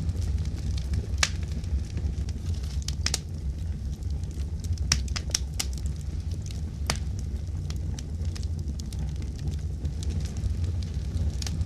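Wood fire burning in a fireplace: a steady low rumble with irregular sharp crackles and pops, several in quick succession in the middle.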